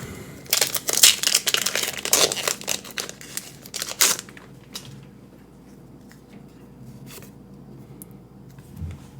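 Foil Pokémon booster pack wrapper crinkling and tearing as the pack is opened by hand, with dense crackling for about the first four seconds, then only faint rustles and light clicks.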